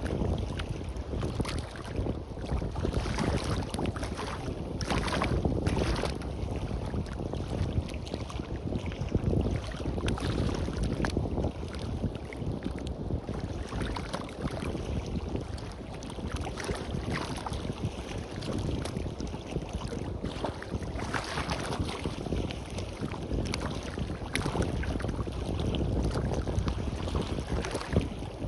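Sea waves washing onto a beach, swelling and fading every few seconds, with wind buffeting the microphone in a low rumble.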